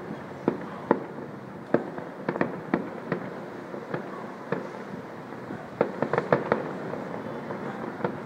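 Fireworks going off: a dozen or more sharp bangs and pops at irregular intervals, with a quick run of several about six seconds in.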